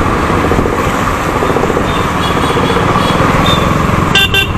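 Motorcycle engine and rushing road and wind noise while riding steadily. Near the end a vehicle horn beeps twice in quick succession.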